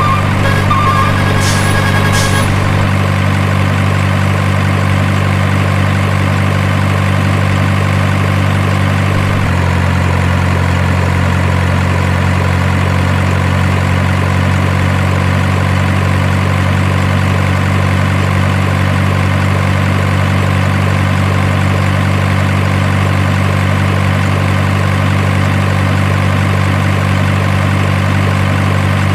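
Diesel truck engine idle sound, a steady low hum that steps slightly in pitch about a third of the way through. A few short beeps and clicks come near the start.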